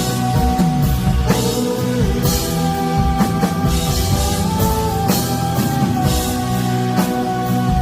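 Rock band playing an instrumental passage: drum kit with recurring cymbal crashes under guitar and held notes.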